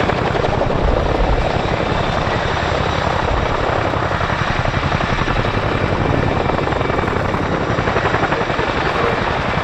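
RAF Chinook tandem-rotor helicopter hovering with an underslung load, its blade slap a loud, rapid, steady chop.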